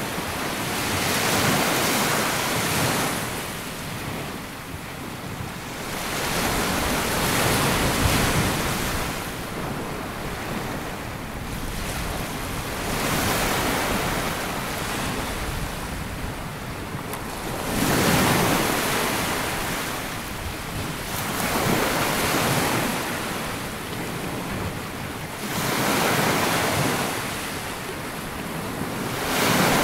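Sea waves breaking and washing up a sandy beach, the surf swelling to a louder rush about every four to six seconds.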